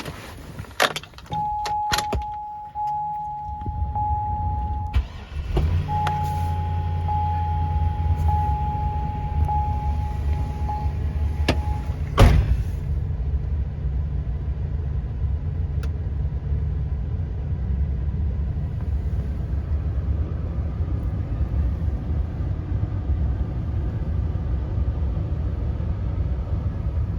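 2006 Hummer H2 SUT's 6.0-litre V8 cold-started in very cold weather: it starts up a few seconds in and settles into a steady idle. A steady warning chime tone sounds over the first several seconds, with a few clicks and a sharp knock.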